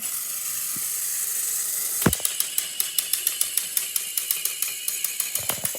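Battery-powered Thomas & Friends toy train engines running with a steady high whir. About two seconds in there is a thump, followed by rapid even clicking, about six clicks a second.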